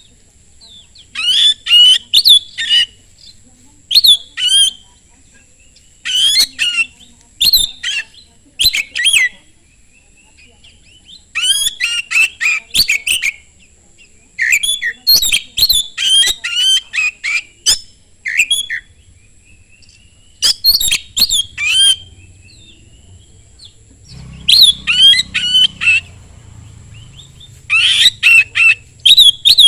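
Oriental magpie-robin (kacer) singing loud bursts of rapid, varied whistled and chattering notes, each phrase about a second long, with short pauses between phrases.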